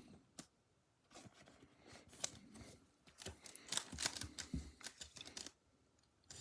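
Faint, intermittent rustling and clicking of trading cards and foil card-pack wrappers being handled and opened by gloved hands.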